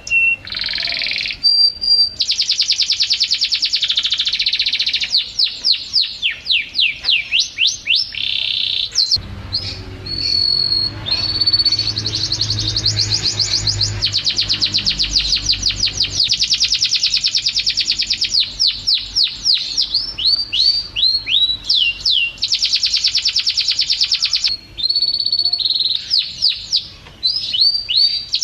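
Domestic canary singing a long, continuous song: fast rapid-fire trills alternating with runs of quick downward-sweeping whistled notes, with a few brief pauses. A faint low rumble sits under the song for several seconds in the middle.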